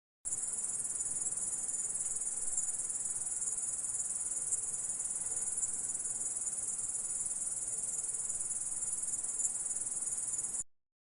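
Orthopteran insect stridulating: a continuous, steady, high-pitched chirring trill that starts abruptly just after the start and cuts off suddenly near the end.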